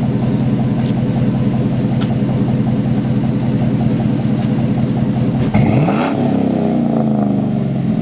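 A lifted pickup truck's engine idling through a Flowmaster 40 muffler with an even exhaust pulse, then revved once about five and a half seconds in, the pitch swinging up and falling back.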